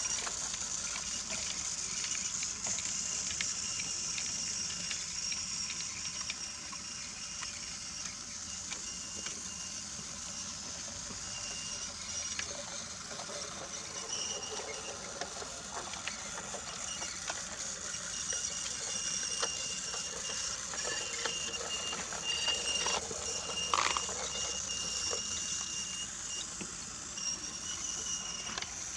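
Battery-powered Brio wooden toy train running on wooden track: a steady small-motor whir with light clicks and rattles of wheels and cars over the track joints, and one sharper knock late on.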